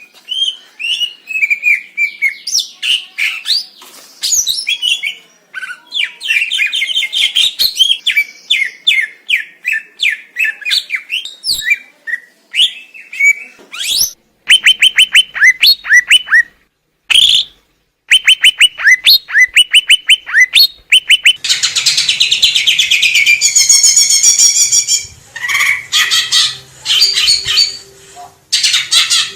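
Green leafbird (cucak ijo) singing: a fast, varied run of chirps, whistles and trills, with a series of rapid, repeated downward-sweeping notes about halfway through and a dense, buzzy chatter later on.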